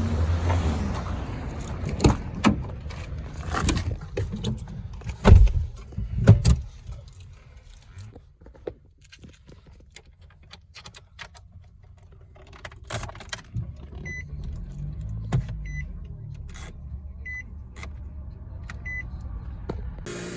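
Handling inside a car: a run of clicks, knocks and jangling keys, then quieter. In the second half, a few short high electronic beeps from the car sound at uneven intervals.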